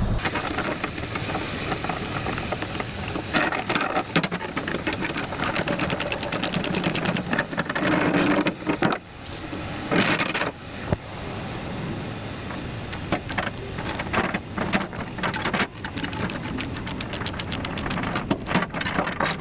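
Steel load chains and binders clanking and rattling as they are unhooked from a lowboy trailer. The clanks come irregularly, with louder clusters about four, eight and ten seconds in.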